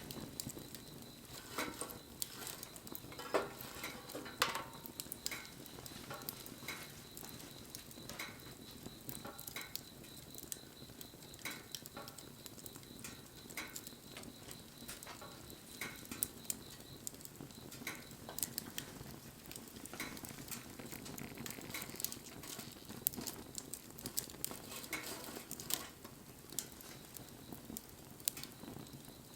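Wood fire burning, crackling with irregular sharp pops over a steady hiss, and a faint high steady whistle through the first half.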